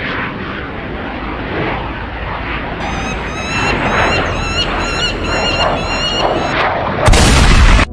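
Birds calling in a string of short, sharp notes over a constant rushing noise, then a loud whoosh of noise about seven seconds in.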